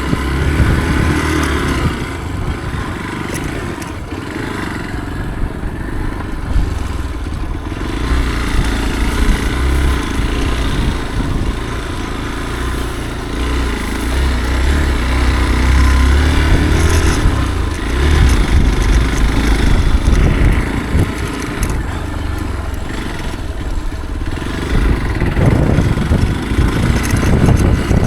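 Motorcycle engine running under way on a dirt trail, its revs and loudness rising and falling over stretches of several seconds.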